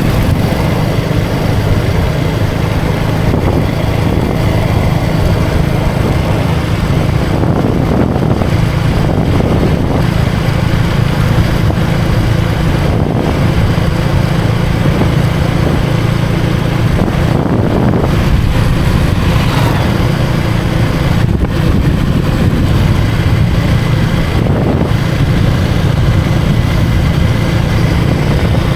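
KTM Duke 250's single-cylinder engine running steadily at cruising speed, with wind rushing over the microphone.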